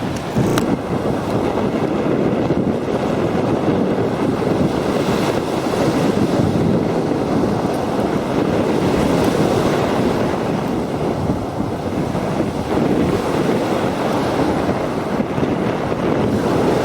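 Steady wind buffeting the microphone over the continuous wash of sea surf on a beach.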